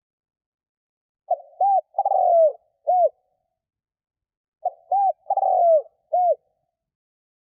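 Spotted dove cooing, the call of a decoy bird used to lure wild doves: two phrases of four notes each, about three and a half seconds apart. In each phrase the third note is the longest and falls in pitch.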